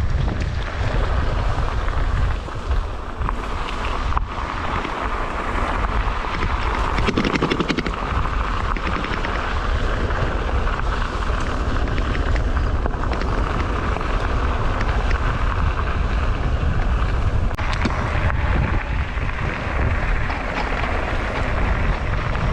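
Wind rumbling on the microphone over the steady road noise of an e-bike riding on wet pavement.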